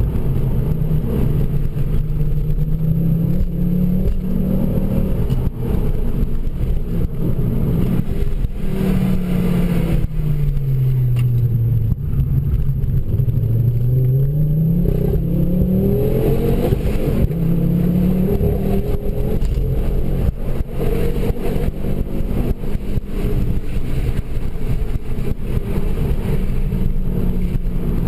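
Ford Focus RS MkII's turbocharged five-cylinder engine, with a Milltek exhaust, heard from inside the cabin while driving, its revs rising and falling through the gears. The note drops low about ten seconds in, then climbs steadily under acceleration.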